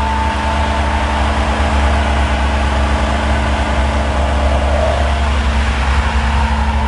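A car running steadily, with a heavy, even low rumble of engine and road noise.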